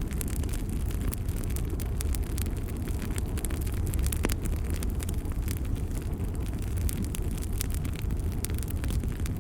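Bonfire burning: a steady low rumble of flames with frequent sharp crackles and pops from the burning wood.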